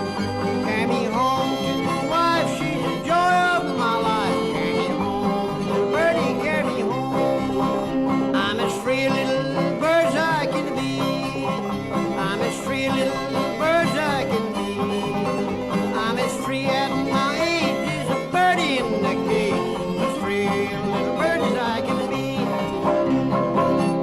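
Instrumental bluegrass string-band music: fiddle playing sliding, bending notes over banjo and guitar, at a steady full level.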